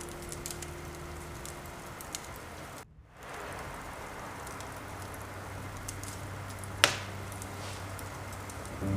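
Steady rain with a log fire crackling, a sharp pop from the fire about seven seconds in. The sound drops out briefly about three seconds in.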